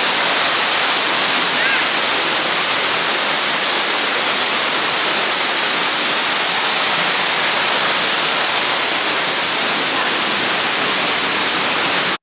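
Steady rushing of a waterfall, with a faint short bird chirp about two seconds in.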